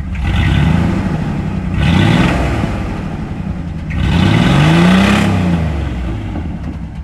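Chevy S10 pickup engine running rough and being revved three times, each rev rising and falling in pitch, the longest and loudest near the end.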